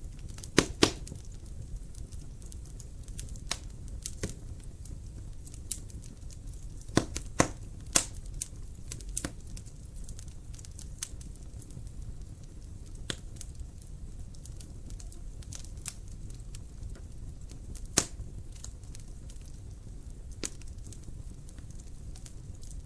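Fire in a fireplace crackling: scattered sharp snaps and pops over a low steady rumble of the flames. A few louder pops come just under a second in, around seven to eight seconds in, and once more at about eighteen seconds.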